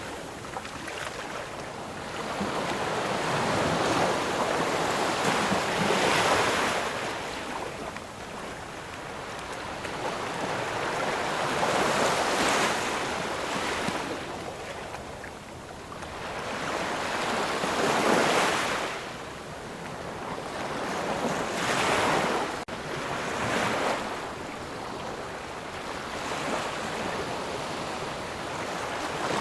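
Ocean surf: waves breaking and washing up the shore, the rushing noise swelling and falling back every few seconds.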